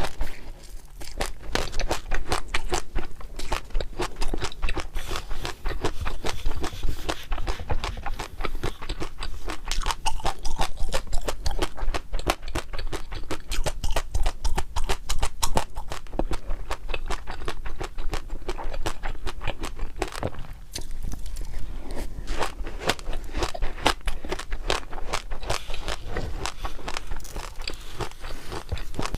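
Close-up eating sounds: a person chewing crunchy food, a dense run of crisp crunches and bites, with brief pauses about a second in and around two-thirds through.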